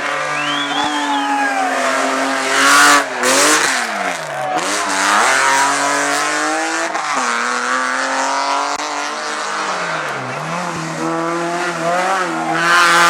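Race car engine revving hard through gear changes, its pitch climbing and falling again and again. A sharp loud burst comes about three seconds in, and the revs drop steeply twice, around four and a half and ten seconds in.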